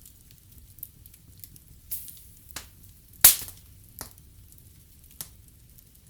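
Wood fire burning in a fireplace, crackling under a low rumble, with a handful of sharp pops and one loud crack about three seconds in.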